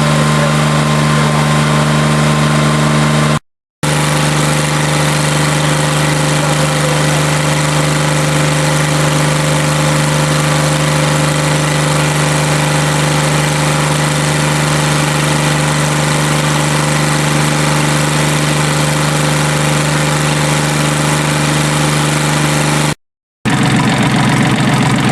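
QC385 three-cylinder diesel engine of a stationary drive unit running steadily at a constant speed. The sound drops out abruptly for a moment twice, once a few seconds in and once near the end.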